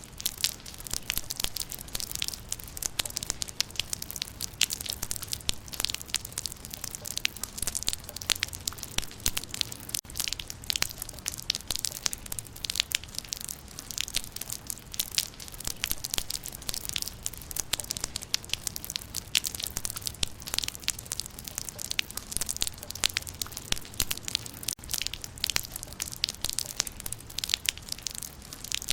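Rain falling on leaves: a dense, steady patter of countless small drop impacts, crisp and crackly.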